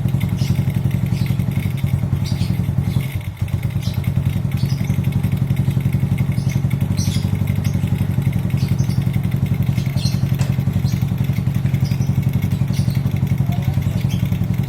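Honda C70 motorcycle with a Supra Fit single-cylinder four-stroke engine running steadily at idle, its level dipping briefly about three seconds in.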